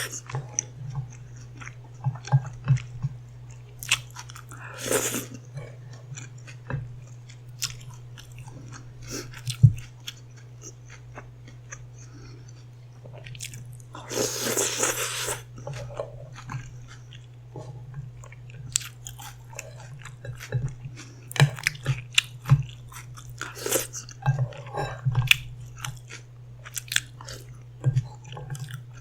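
Close-miked eating: a person biting and chewing food, with many small crunchy, wet clicks and two longer noisy stretches, one about five seconds in and a longer one about halfway through. A steady low hum runs underneath.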